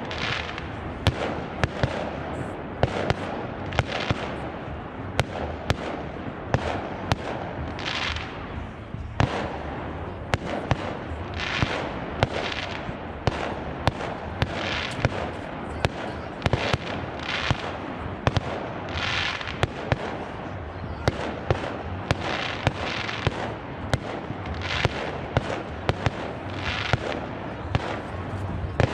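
Fireworks display: a continuous run of sharp bangs from bursting shells, one or two a second, with short hissing rushes between them.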